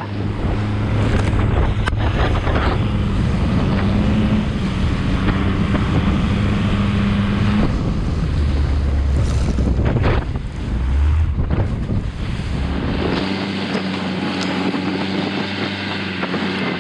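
A Thai longtail boat's engine running steadily, with wind buffeting the microphone and water noise. About thirteen seconds in, the engine note changes and its lowest part drops away.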